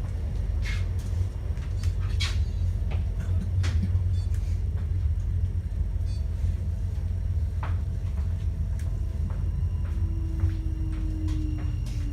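Passenger-cabin noise of a Class 399 tram-train: a steady low rumble with scattered clicks and knocks. Near the end a whine falls slowly in pitch.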